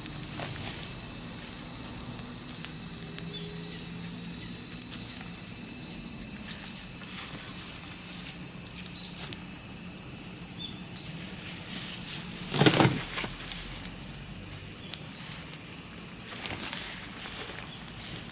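A steady, high-pitched chorus of insects, likely crickets, sounding continuously. About two-thirds of the way through there is one short, louder knock or crackle.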